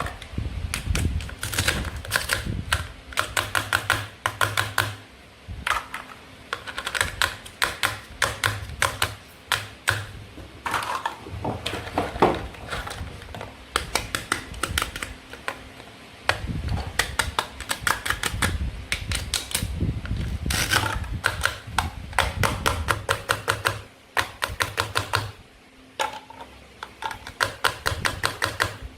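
Runs of rapid sharp clicks and taps from toy fruit and vegetables being cut and handled, going on almost without pause.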